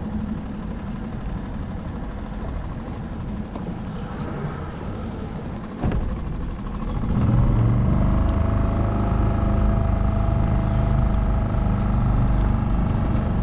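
Skiff's outboard motor running at low speed, then throttled up about seven seconds in, running louder and steadier with a hum.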